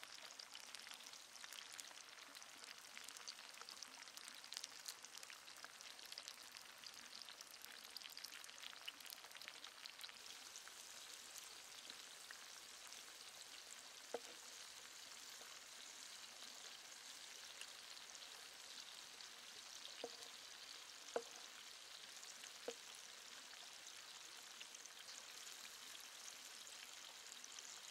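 Cauliflower florets and red bell pepper frying in oil in a clay pan, a faint steady sizzle with fine crackles. In the second half, a few short sharp knocks with a brief ring, the loudest of them a little past the two-thirds mark, come as a metal blade stirs the vegetables against the pan.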